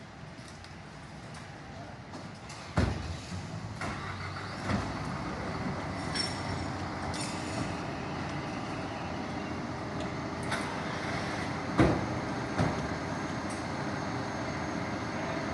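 Fire truck's engine running steadily, with several sharp clunks and knocks, the loudest about twelve seconds in.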